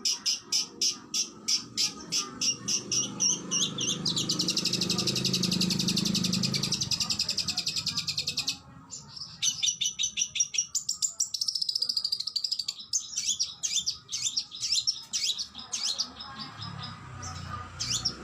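Oriental magpie-robin (kacer) singing in fast bursts of high repeated notes, about four a second. About four seconds in it breaks into a dense rapid trill for several seconds, then returns to varied, quickly repeated whistled phrases.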